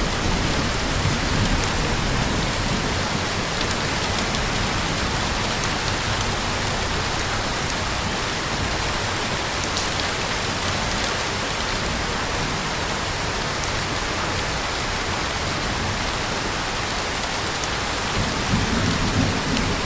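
Heavy rain falling steadily on surfaces, with scattered individual drop ticks, and a low rumble swelling briefly near the end.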